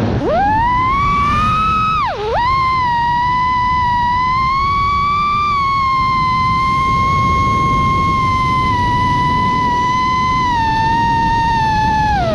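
FPV quadcopter's brushless motors whining with throttle changes. The pitch dips sharply and recovers twice in the first few seconds, then holds steady for a long stretch before falling away at the end.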